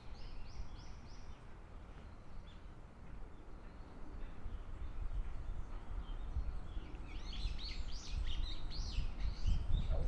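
Small birds chirping in a forest: a short run of about four quick calls near the start, then busier chirping over the last few seconds, over a steady low rumble.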